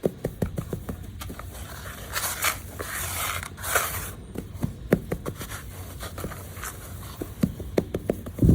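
Hands crumbling and crushing lumps of gritty red dirt: a run of sharp crackles and scraping grit, thickening into a steady gritty hiss around the middle. A loud dull thud comes right at the end.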